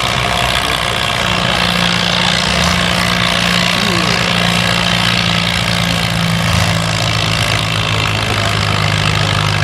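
Farm tractor engine running steadily at a tractor pull, its pitch shifting a little lower about six and a half seconds in.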